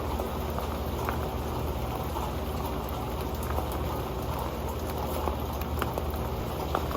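Steady rain falling on an old metal pan: a continuous patter with many small drop ticks, a few of them sharper.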